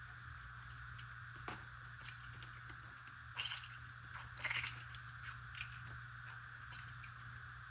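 A lemon squeezed by hand, giving a few short, wet squishing sounds, the loudest a little after three seconds and again about a second later, over a faint steady hum.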